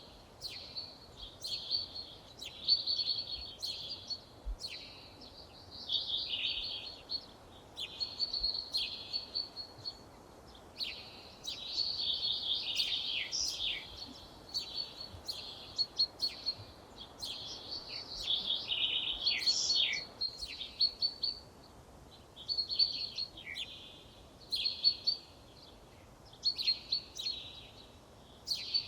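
A songbird singing in phrases of one to three seconds, separated by short pauses, over faint background noise.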